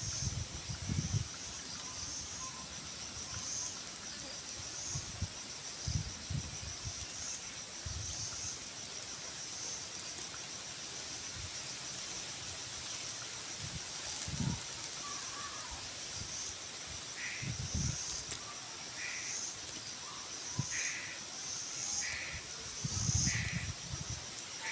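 A bird calling over and over, short calls about once a second, starting about two-thirds of the way in, over a steady high-pitched pulsing drone, with a few low thumps scattered through.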